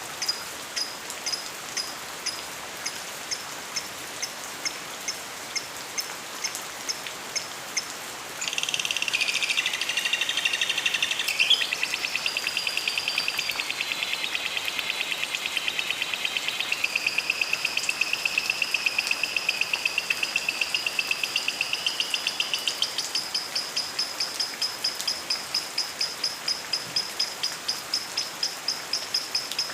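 Lovebird chirping: short high chirps repeated about twice a second. About eight seconds in, a louder continuous warbling chatter joins and runs for around fifteen seconds, while the repeated chirps go on to the end. A steady hiss of rain lies beneath.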